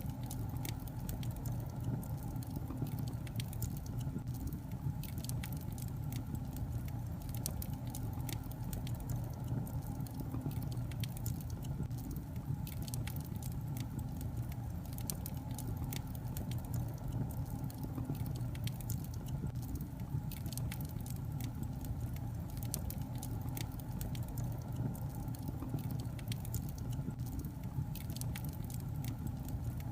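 Wood fire burning in a fireplace: a steady low rumble of the flames with irregular crackles and pops from the burning logs.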